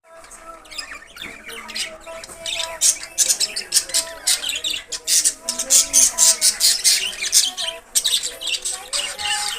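Budgerigars chattering: many quick, overlapping chirps and squawks.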